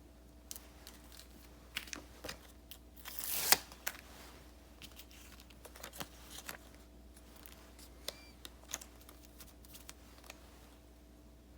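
Paper and stickers being handled for diary decorating: scattered light crinkles, taps and clicks, with one longer tearing rustle about three seconds in that ends in a sharp snap.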